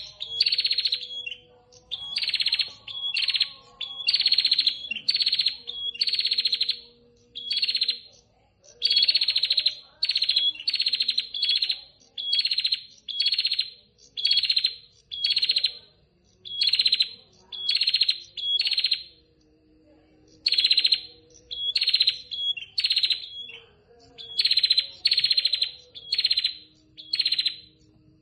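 Female prinia (prenjak) calling for a male: a long run of short, buzzy, rapidly ticking notes, about one a second and often in close pairs, with a few short pauses.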